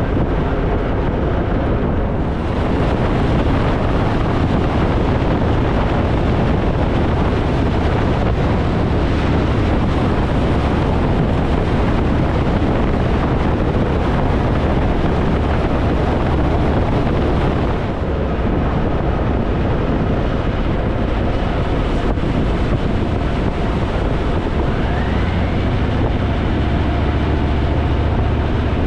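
Wind rushing over the microphone, with a Harley-Davidson motorcycle's engine running underneath at a steady road speed; the sound eases slightly for a moment about two thirds of the way through.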